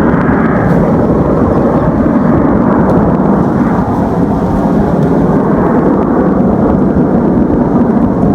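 Loud, steady low roar of jet aircraft engines.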